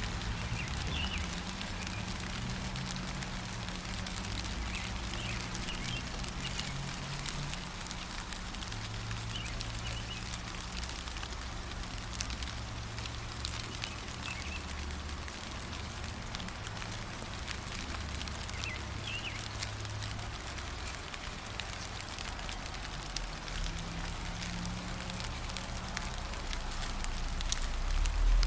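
Steady gentle rain pattering, with a few brief bird chirps now and then and a low rumble underneath that swells near the end.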